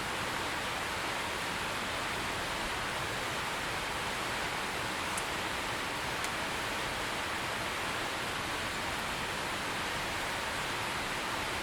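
Steady heavy rain falling, an even hiss with a few faint sharp drip ticks.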